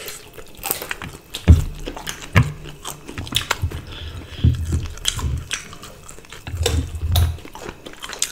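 Close-miked chewing and biting of food eaten by hand, with many sharp wet mouth clicks and several dull low thumps, the loudest about one and a half seconds in.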